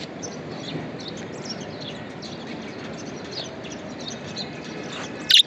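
Budgerigars chirping and twittering in many quick short calls over a steady low background noise, with one loud sharp click just before the end.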